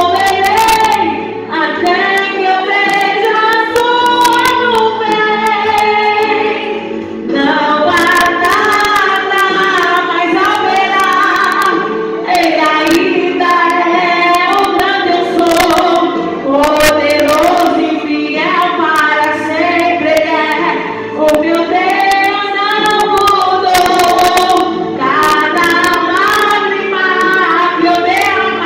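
A woman singing a worship song over instrumental accompaniment, in sung phrases of about four to five seconds each.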